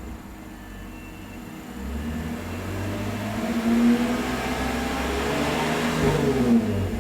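Toyota 210-series Crown Athlete 2.5 L V6 running through a custom aftermarket exhaust with a deep bass tone, quiet at first, then revved from about two seconds in, the pitch rising and falling back twice.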